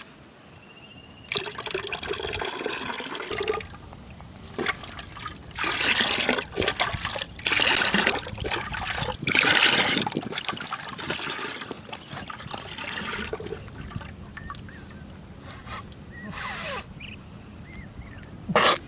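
Water splashing and trickling in irregular bursts, each a second or two long.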